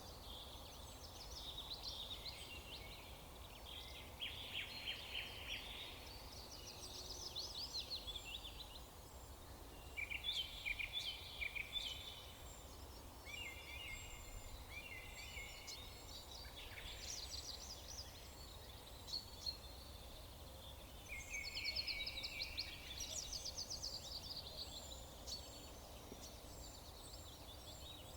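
Songbirds singing in short, rapidly trilled phrases every few seconds, with faint high chips between them, over a low steady background rumble.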